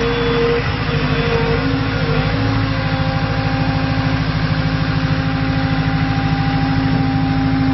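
Volvo MC110C skid steer loader's diesel engine running steadily, with a whine that shifts up in pitch about two seconds in.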